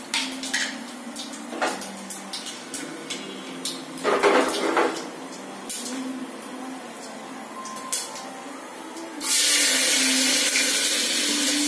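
Kitchen utensils clink and knock, then about nine seconds in a loud, steady sizzle starts suddenly: chopped onion going into hot oil in an open pressure cooker on a gas stove.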